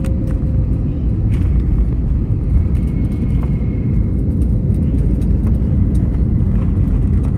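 Airbus A321neo cabin noise: a loud, steady low rumble of the airliner's engines and airflow heard from inside the cabin.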